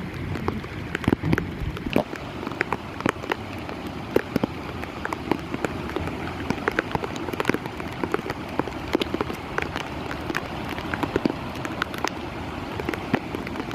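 Heavy rain falling steadily, with many sharp individual drops striking close by over an even hiss.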